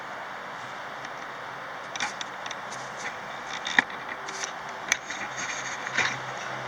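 A run of small scrapes, rubs and clicks close to the microphone over a steady hiss, starting about two seconds in.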